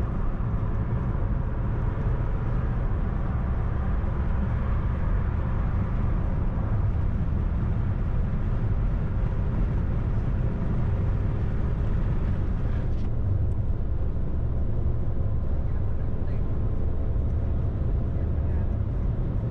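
Steady road noise of a car driving: a low rumble from engine and tyres. The higher hiss drops off about two-thirds of the way through.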